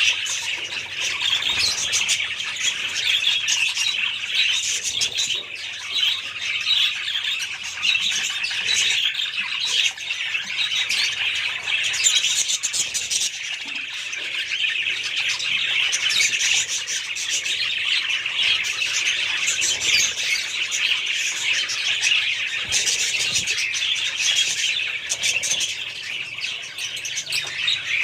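A flock of budgerigars chattering and chirping without a break, with many high, quick calls overlapping.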